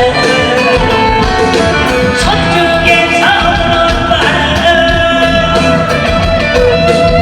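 A Korean traditional-style singer (sorikkun) singing with instrumental accompaniment; about three seconds in the voice holds one long note.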